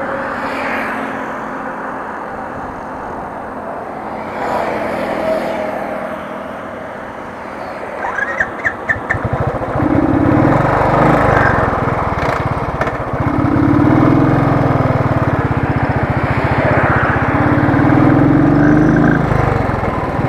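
Royal Enfield Thunderbird 350 single-cylinder engine being cranked to restart after its fuel tank has run dry. About eight seconds in comes a quick run of sharp clicks, then a low, pulsing engine sound that rises and falls in pitch several times.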